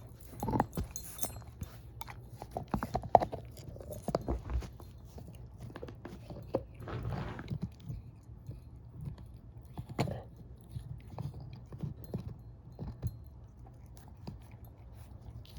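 A shepherd mix dog chewing and gnawing on a bone: irregular wet crunches and cracks, with a sharp crack about three seconds in and another about ten seconds in.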